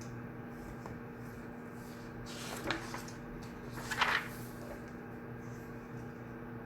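Study-room ambience: a steady electrical hum, with two brief handling noises of something being moved, about two and a half and four seconds in, the second louder.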